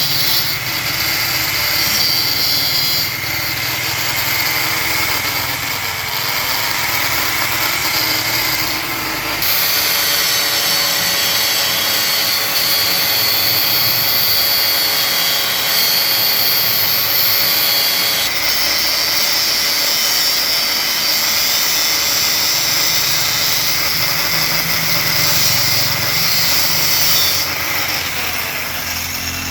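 Electric power tool running continuously under load, its motor tone dipping briefly about six seconds in and sagging again near the end.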